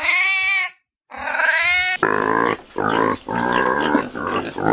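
Two drawn-out meows from a domestic cat, then about two seconds in a sudden switch to pigs grunting and squealing in quick, overlapping calls.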